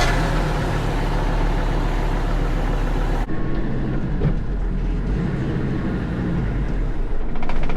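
Diesel tractor engine running with a steady low hum; a loud hiss over it cuts off suddenly about three seconds in.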